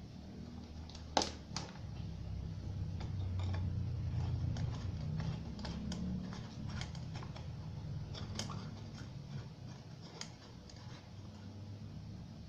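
Scattered small clicks and taps of small hard objects being handled, with one sharper click about a second in, over a steady low hum.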